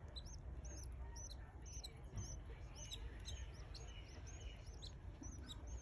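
Canary chicks cheeping: many short, high-pitched calls, several a second and overlapping, over a steady low hum.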